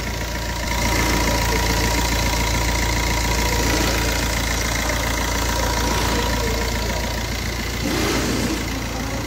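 Car engine idling steadily and smoothly with a freshly replaced water pump, running "like a clock": the pump noise that had changed the engine's whole sound is gone.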